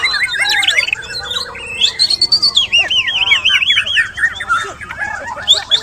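White-rumped shamas (murai batu) singing in a contest, several birds at once in a dense, unbroken stream of overlapping whistled notes that rise and fall.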